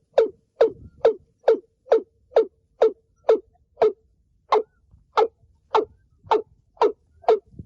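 Male watercock calling: a steady series of hollow, booming notes at about two a second, each with a sharp start dropping into a low resonant tone, pausing briefly once partway through.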